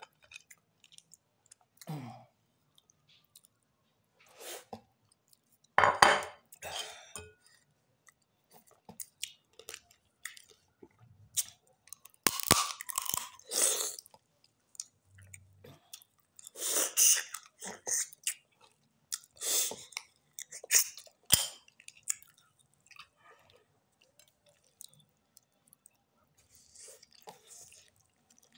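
Close-up eating sounds of crab and rice: irregular chewing and wet mouth smacks in short bursts, some much louder than others, with pauses between them.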